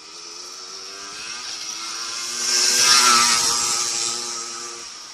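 Small petrol engine passing close by: it grows louder to a peak about three seconds in, then fades away, with a hissing rush at its loudest.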